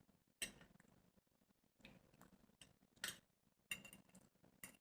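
Faint eating sounds: a handful of short, sharp clicks, about five spread over the few seconds, from chewing and utensils between bites.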